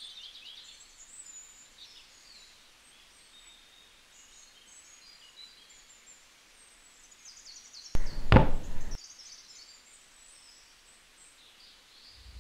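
Faint bird chirping over quiet room ambience, with a single loud thud about eight seconds in.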